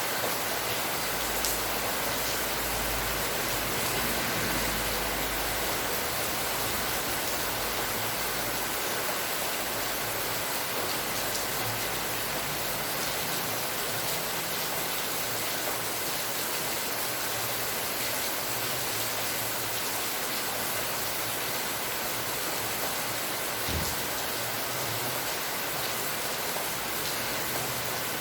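Steady rain falling, a dense even hiss. A brief low thump near the end.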